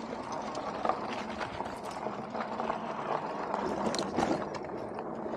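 Super73 electric bike being ridden: irregular rattles and clicks over steady road noise, with a faint steady hum.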